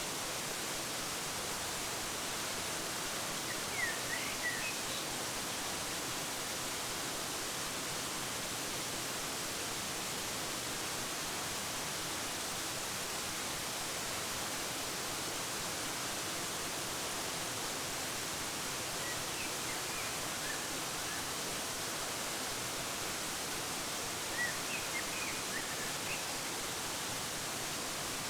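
Steady rushing of a waterfall, with short bird chirps breaking in a few times: about four seconds in, around twenty seconds, and again near the end.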